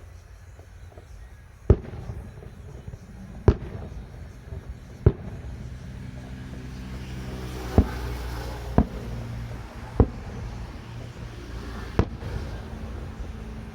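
Aerial fireworks bursting: seven sharp bangs spaced about one to two seconds apart, over a steady low hum.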